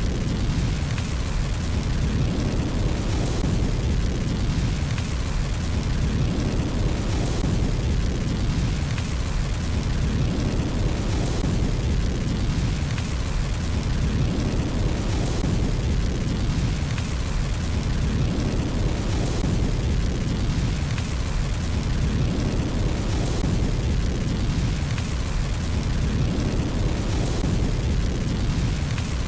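Fireplace fire sound: a steady low roar with a short burst of hissing crackle about every four seconds, recurring at even spacing throughout.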